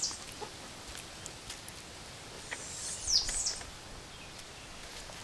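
A songbird calling twice, each a short cluster of high chirps sweeping down in pitch: once at the very start and again about three seconds in, over a faint steady background hiss.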